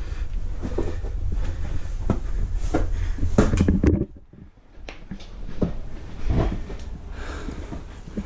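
Scuffs, scrapes and knocks of someone clambering over granite rocks into a rock overhang, over a steady low rumble. The sounds stop abruptly about four seconds in and pick up again a second later.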